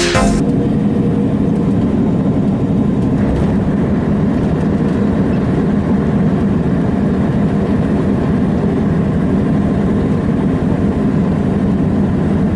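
Heavy diesel engine running steadily at low, even speed, with no revving.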